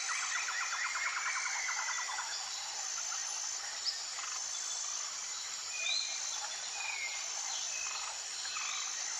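Several wild birds singing together over a steady background hiss: a rapid trill through the first two seconds, thin high whistled notes repeated about once a second throughout, and scattered short chirps and down-slurred calls, with one sharp tick just before four seconds.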